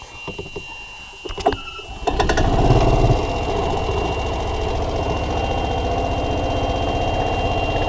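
1993 Club Car gas golf cart's small engine: a few clicks, then about two seconds in the engine starts, runs up briefly and settles into steady running.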